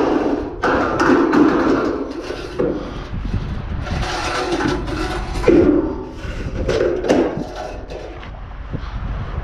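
Irregular knocks and clatters of objects being handled and struck. A steady mechanical whir runs through the first two seconds, and the loudest knock comes about five and a half seconds in.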